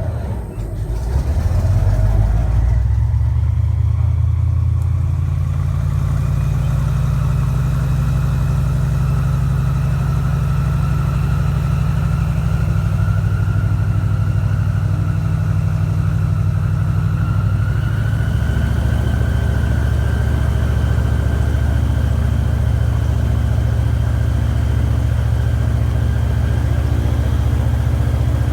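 Airboat engine and propeller powering up over the first couple of seconds, then running steadily at cruising power: a loud, even low drone with a fainter whine that edges up in pitch midway.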